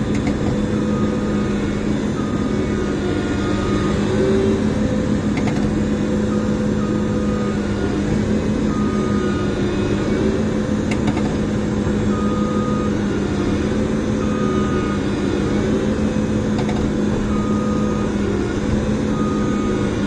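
Massey Ferguson tracked combine harvester running steadily under load, a constant engine hum, with short high-pitched tones coming and going every second or two.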